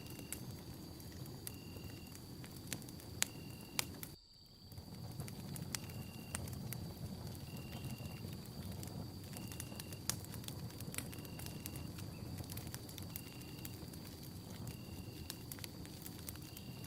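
Wood campfire burning, with frequent sharp crackles and pops over the low steady rustle of the flames. A short high chirp-like tone repeats about once a second over a faint steady high whine, and the sound drops out briefly about four seconds in.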